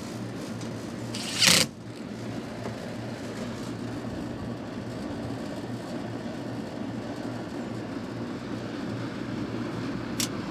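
Home air conditioner's outdoor condenser unit running with a steady low hum, its compressor now starting and running properly on a new start capacitor. A brief loud burst of noise comes about a second and a half in, and a short sharp click near the end.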